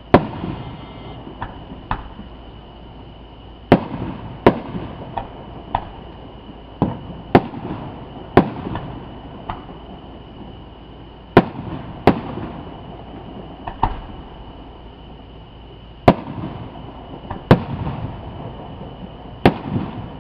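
Aerial fireworks bursting: about ten sharp bangs at irregular intervals, a second or more apart, with smaller pops between them and a low rumbling tail after each bang.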